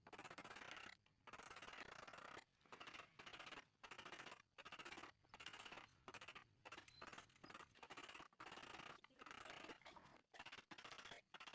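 Faint scraping strokes of a hand tool working wood, repeated about one to two times a second with short pauses between.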